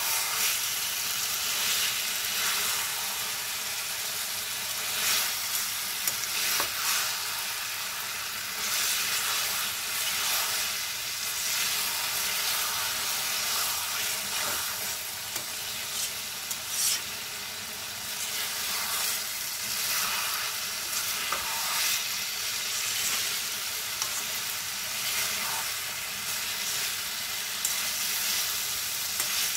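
Potato, pea, onion and capsicum mixture sizzling in a karahi while a spatula stirs it, with frequent scrapes and knocks of the spatula against the pan. It is a short final stir-fry so the capsicum and peas stay crunchy.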